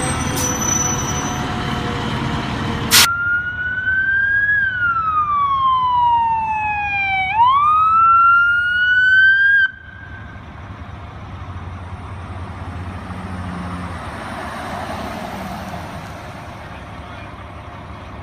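Fire truck siren wailing, one slow fall in pitch and a rise back up, cutting off suddenly. Before it comes a loud stretch of heavy truck noise with steady tones, and after it faint traffic hum.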